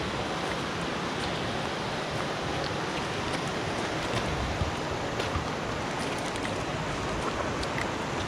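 Clear mountain stream running over stones: a steady, even rush of flowing water.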